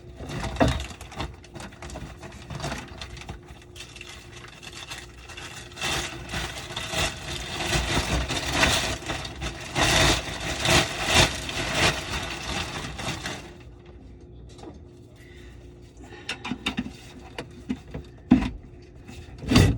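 Hand work on a kitchen sink's disposal and drain piping: a long stretch of scraping and rattling, then a few separate sharp knocks near the end.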